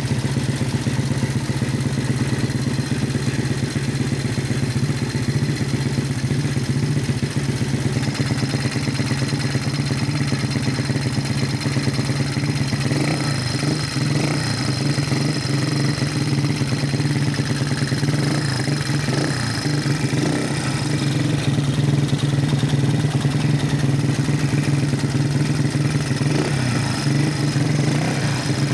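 Honda motorcycle engine running steadily at idle, holding an even pitch throughout.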